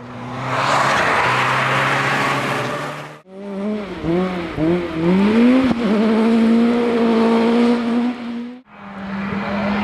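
Rally car engines at high revs, heard in three short passes with abrupt breaks between them. First a steady high-revving engine under heavy road and tyre noise, then an engine whose pitch swings up and down several times with throttle and gear changes before climbing and holding high, then another steady high-revving run.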